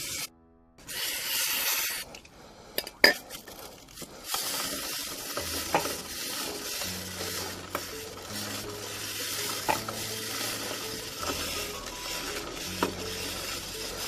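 Stiff brush scrubbing a dirty motorcycle chain wet with brake and chain cleaner, a steady scratchy hiss with an occasional click from the chain. A brief hiss about a second in and a few sharp clicks just before the scrubbing settles in.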